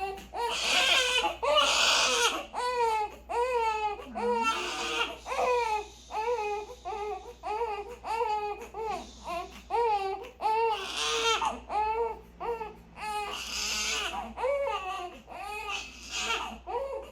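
Newborn baby crying: a run of short, high-pitched wails about two a second, broken by several louder, harsher cries.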